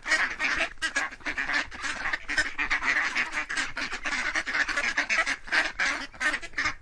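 Ducks quacking: many short quacks overlapping in a steady, rapid chatter.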